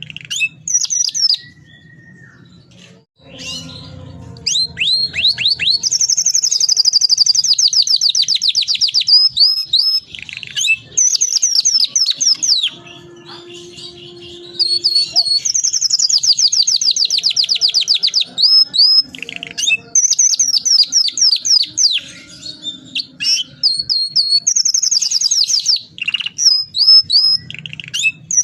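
Domestic canary singing in full voice: long, fast rolling trills of rapidly repeated high notes, broken by shorter whistled phrases and brief pauses.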